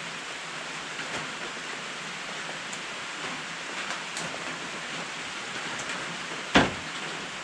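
Steady hiss of rain falling on a sheet-metal carport roof, with a single sharp knock near the end.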